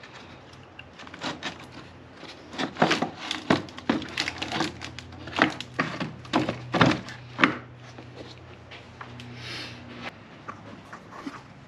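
Irregular knocks and clicks of hand tools and parts being worked loose while removing a Jeep's battery box, about a dozen sharp strikes between about one and eight seconds in. A low steady hum runs underneath.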